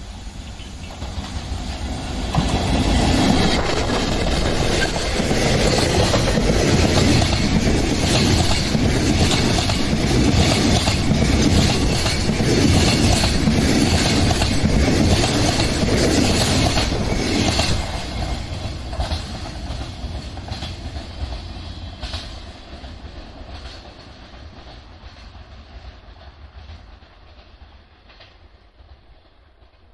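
A freight train hauled by an EF64 electric locomotive passes close by. Its container wagons' wheels clatter over the rail joints. The sound swells about two seconds in, stays loud until about eighteen seconds, then fades away as the train recedes.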